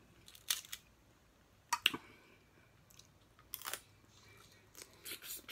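Close-miked chewing of snow crab meat: scattered short mouth clicks and smacks, a second or so apart, with quiet gaps between them.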